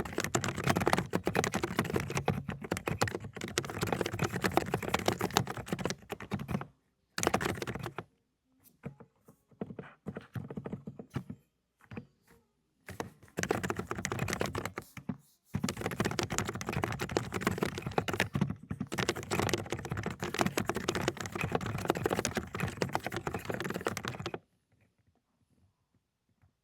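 Fast typing on an Aula 'Dokgeomi' mechanical keyboard with silent cotton-candy linear switches, a dense stream of muted key clicks. It breaks off briefly twice, goes sparse for a few seconds in the middle, then stops a couple of seconds before the end.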